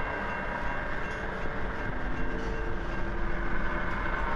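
Steady rumble and rolling noise of a train, with a few faint held tones over it.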